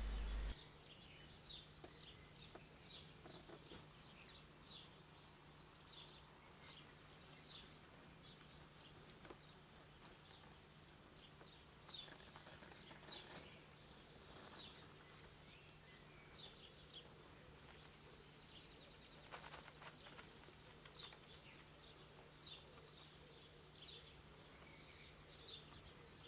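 Faint woodland birdsong: scattered short high chirps throughout, with a louder brief run of high notes about sixteen seconds in and a short high trill a couple of seconds later.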